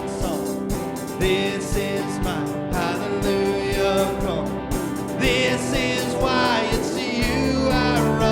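Live church worship band playing a song over a steady beat, with singing voices.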